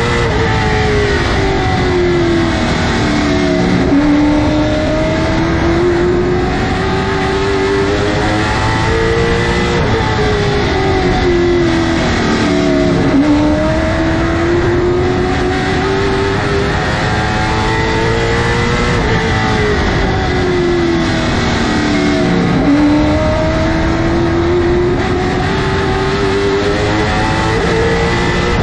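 Late model stock car's V8 engine at racing speed, climbing in pitch as it accelerates down each straight and dropping sharply as the throttle is lifted for the turns, about every nine to ten seconds. A steady high whine runs underneath.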